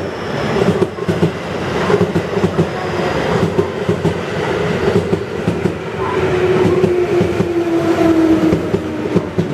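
Electric train sounds at a station platform: a steady rumble with frequent rattling, and from about six seconds in a tone that slides slowly down in pitch.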